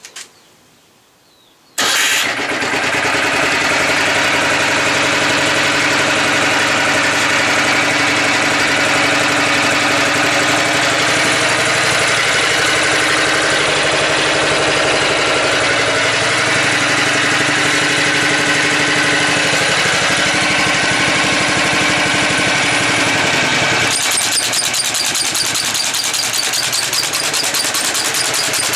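Motor Sich walk-behind tractor engine starting up about two seconds in and running steadily. About 24 seconds in, the sound changes to a fast, even rattle.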